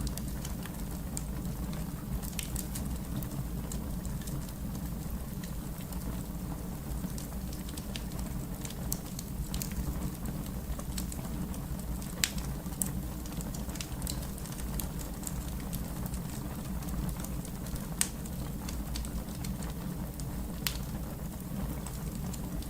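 Wood fire crackling: a steady low rumble of burning, with irregular sharp pops and snaps, two of them louder about halfway through and again later.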